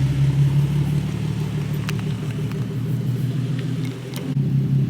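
Car engine idling with a steady, deep exhaust rumble. It drops briefly about four seconds in, then comes back up.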